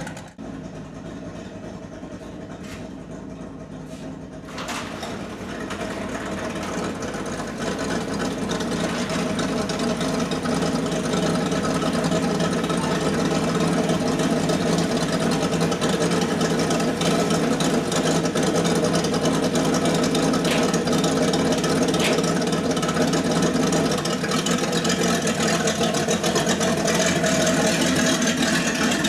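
Car engine running: a few clicks in the first seconds, then the engine sound swells over several seconds and settles into a steady drone.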